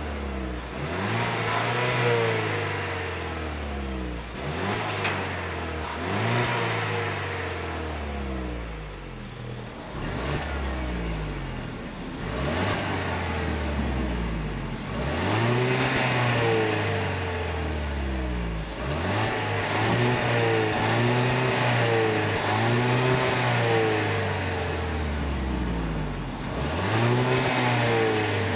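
Peugeot RCZ 1.6 THP's turbocharged four-cylinder petrol engine being free-revved while the car stands still, heard from outside at the twin exhaust. It gives a series of throttle blips, each rising and falling in pitch, some quick and some held longer, and drops back toward idle between them.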